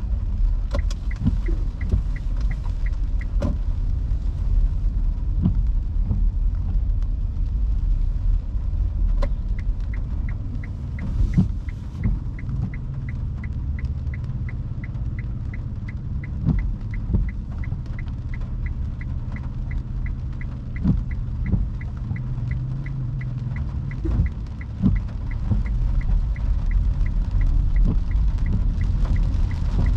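Electric car driving in heavy rain: a steady low road and tyre rumble with scattered raindrop taps. A fast, regular ticking comes in about a second in, breaks off for several seconds, then resumes and runs until near the end.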